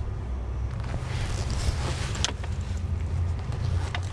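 Steady low rumble of wind buffeting the microphone, with rustling and a couple of sharp knocks.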